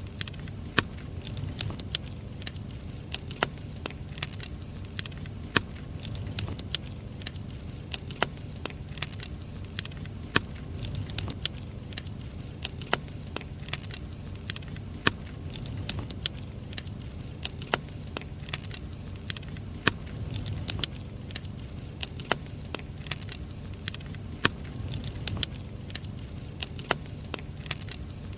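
Firewood burning in an open fire, crackling with frequent irregular sharp pops over a steady low rumble.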